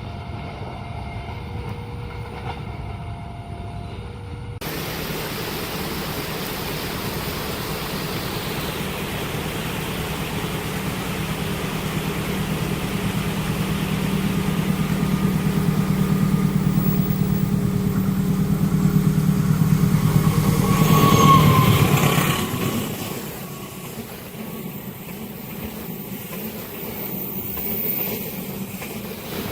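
Diesel-hauled passenger train approaching at speed, its engine hum and rail noise building to a peak about 21 seconds in as the locomotive passes, then dropping to the lower rumble of the carriages rolling by.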